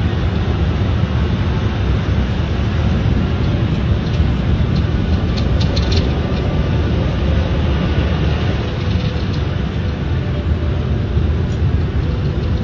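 Steady low rumble of a car heard from inside its cabin, the engine idling, with a few faint clicks about five to six seconds in.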